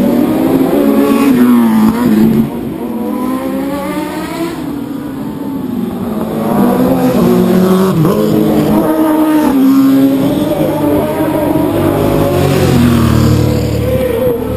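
Race motorcycles at high revs going past, several engines at once, their pitch climbing through the gears and dropping as they pass. The sound eases off a couple of seconds in and builds again from about six seconds.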